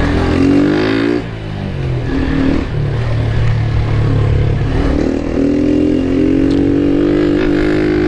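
Honda CG 160 motorcycle's single-cylinder engine under way: it rises in pitch as it accelerates, drops suddenly about a second in as the throttle eases, then pulls up again from about five seconds and holds a higher note before dropping near the end.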